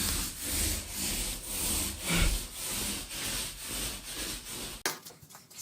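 Handsaw cutting wood with steady back-and-forth strokes, about two a second, stopping abruptly about five seconds in.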